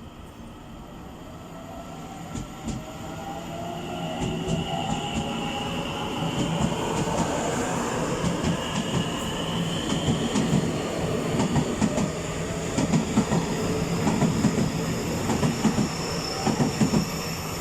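Taiwan Railways 900-series electric multiple unit pulling away and accelerating: the traction motors' whine rises in pitch as it gathers speed. The train grows steadily louder, and in the second half the wheels clack rhythmically over the rail joints.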